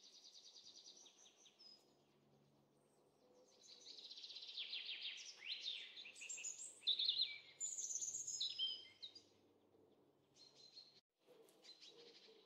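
A small songbird singing outdoors: a short high trill at the start, then from about three and a half seconds a longer, louder song of rapid trills and quick sliding whistles that dies away before ten seconds, with a few fainter chirps near the end.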